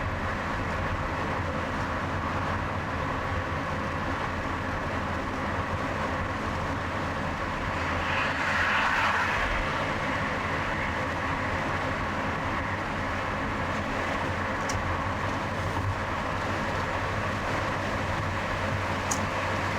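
Steady engine and tyre noise of a car driving along a highway in traffic, with a brief louder swell about eight seconds in.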